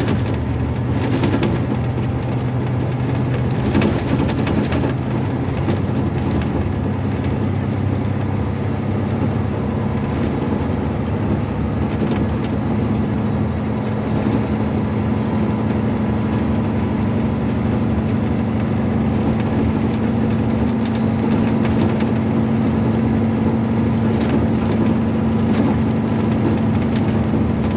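Semi-truck diesel engine running steadily while driving, its note stepping higher about halfway through.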